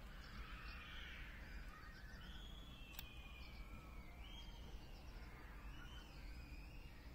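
Faint birds calling, several short rising and falling calls, over a low steady background rumble, with a single light click about three seconds in.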